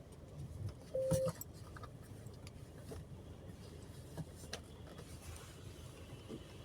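Quiet car-wash bay heard from a waiting car: a faint low rumble with a few small clicks, and a short steady beep about a second in.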